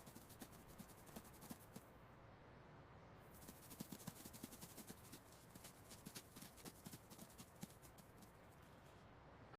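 Faint, quick, irregular clicking and tapping, many light taps a second, like small feet scurrying or scratching; thinner for about a second near the start, heaviest about four seconds in.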